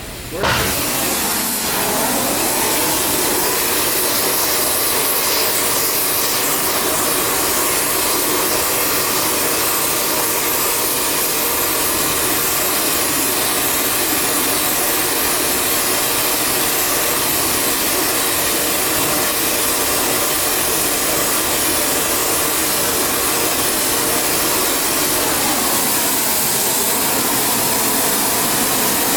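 Gas torch blowing a steady, loud roaring hiss as a metal piece is heated from the center outward, with the corners avoided because they overheat.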